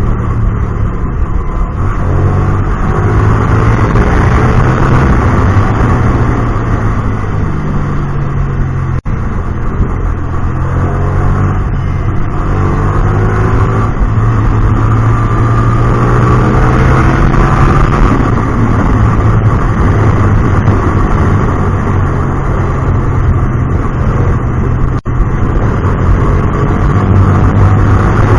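Hyosung GT250R's 250 cc V-twin running through an aftermarket Solfer exhaust while riding, the engine note rising and falling with throttle and gear changes. The sound drops out for an instant twice.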